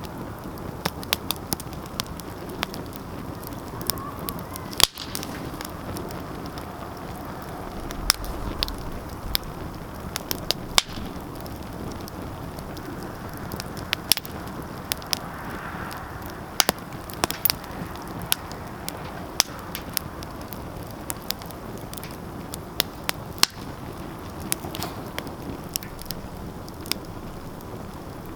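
Fire burning in a fireplace, crackling: irregular sharp snaps and pops, a few much louder than the rest, over a steady soft hiss of the flames.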